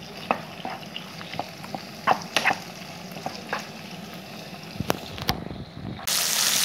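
Pieces of liver sizzling in hot oil in a frying pan as a wooden spatula stirs them, with scattered knocks and scrapes of the spatula against the pan. Near the end the sizzling suddenly becomes louder and fuller.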